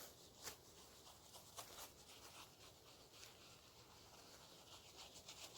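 Near silence, with a few faint short taps and rustles, the first about half a second in and two more just before two seconds in.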